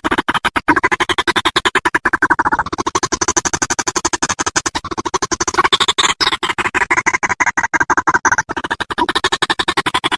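White-breasted waterhen (ruak-ruak) calling as a lure call: a loud, unbroken run of harsh, rapid pulses, about ten a second.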